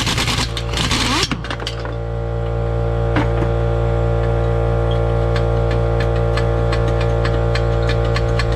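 An impact wrench rattling in short bursts on the exhaust hardware, then, from about a second and a half in, a steady low machine hum with light ticking.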